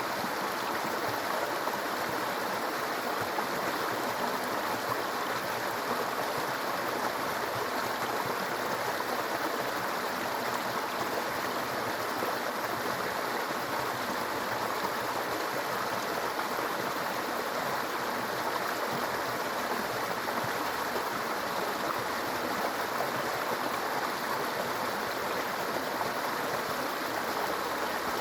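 A small stream babbling and trickling over stones in a steady, even rush of water.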